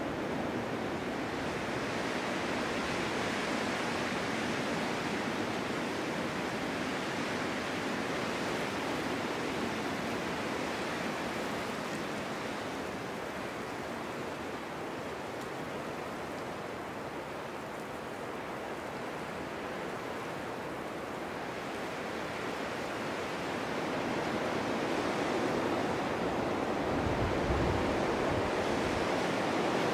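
Snowstorm wind blowing steadily, easing a little midway and building again toward the end, with a low buffeting rumble near the end.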